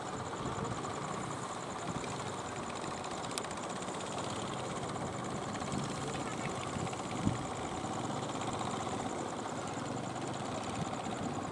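Fishing boat engines running steadily, with a single thump about seven seconds in.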